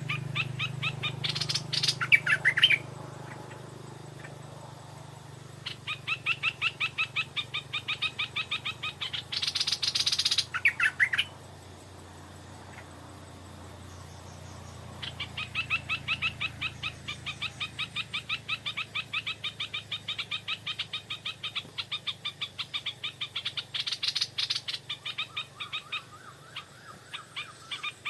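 Stripe-throated bulbuls calling: long runs of rapid repeated notes at about five a second, broken by louder, higher rising phrases a few times.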